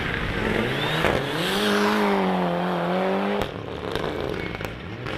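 Rally car engine revving up as it accelerates out of a tight turn, its pitch rising and then holding high. About three and a half seconds in the sound drops suddenly to a quieter, more distant engine.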